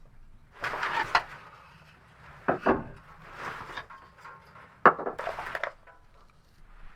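Three bouts of handling noise, scraping and rustling, each with a sharp knock; the loudest knock comes about five seconds in.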